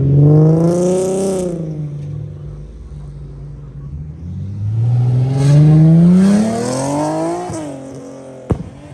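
Car engine revving hard twice as the car accelerates away. There is a short pull in the first second and a half, then a longer climb in pitch that cuts off sharply about seven and a half seconds in, as the driver lifts or shifts. A sharp click comes near the end.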